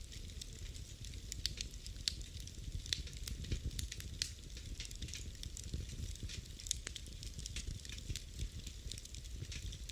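Wood fire burning in a fireplace: a low steady rumble of the flames with frequent irregular sharp crackles and pops.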